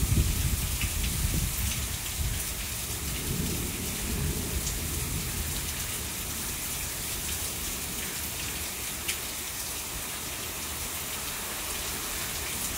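Heavy rain pouring steadily, with a low roll of thunder at the start that dies away over the first few seconds. A few sharp drip taps stand out now and then.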